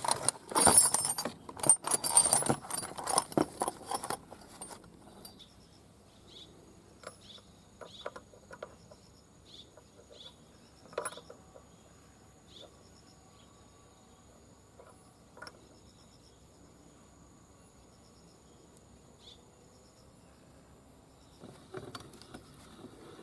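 Hand work on a motorcycle cylinder head: a few seconds of rapid, loud scraping strokes, then scattered light metallic clinks and ticks of parts and tools being handled.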